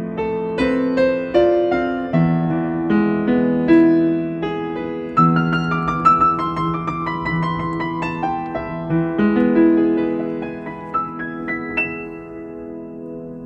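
Slow solo piano music: single notes and chords struck about every half second, each ringing on and fading. The playing grows softer near the end, a last few notes dying away.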